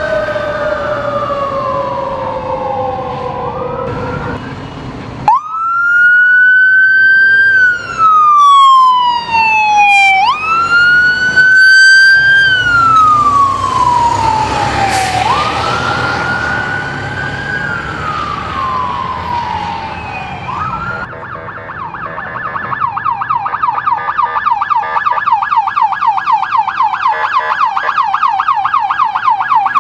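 Electronic emergency-vehicle siren on wail, sweeping slowly up and down about every five seconds, with a second, lower siren tone falling away at the start. About 21 seconds in it switches to a rapid yelp.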